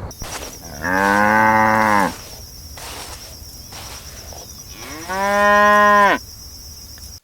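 A cow mooing twice, each moo a loud, even call about a second long, with a few seconds' pause between them.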